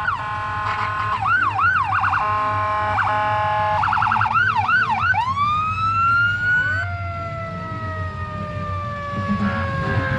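Electronic emergency-vehicle siren on a passing parade vehicle, switching between rapid yelping sweeps and steady alternating tones. About five seconds in it changes to a long rising wail that levels off and slowly falls. A low engine rumble runs underneath.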